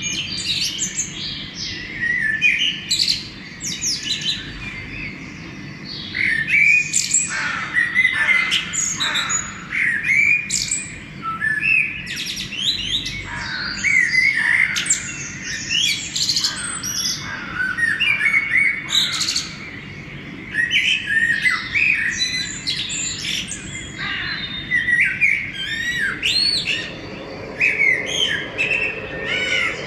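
A dawn chorus of many songbirds singing at once: overlapping chirps, whistles and short rising and falling phrases follow one another without a break.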